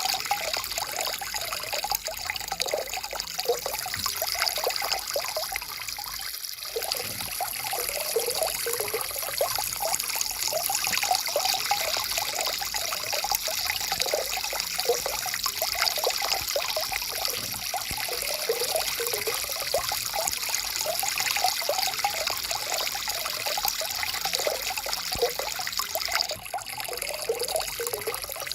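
Stream water trickling and gurgling steadily, with two brief dips in level: about six seconds in and near the end.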